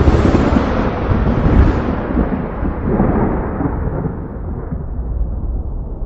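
A thunderclap breaking suddenly, then rolling on as a long rumble that swells again a couple of times and grows duller as it fades.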